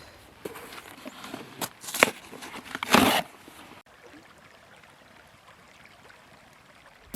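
Cardboard kindling being handled and broken up for a campfire: scattered rustles and clicks, with a sharp click about two seconds in and a louder swish about three seconds in. After a sudden cut, only a faint steady hiss remains.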